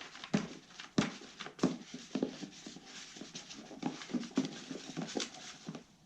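A spatula working thick, sticky two-part epoxy on a hard flat board: irregular taps and short squelching scrapes, about two a second, as the stiff, tacky mix is pressed and scraped.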